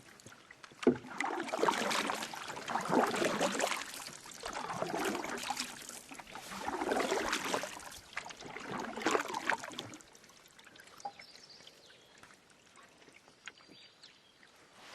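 Canoe paddle strokes pulling through water, a swishing surge about every two seconds, with a sharp knock at the first stroke. The strokes stop about ten seconds in, leaving faint water sounds.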